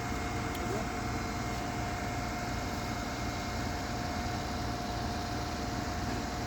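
A vehicle engine idling steadily, a constant low rumble with a faint steady whine above it.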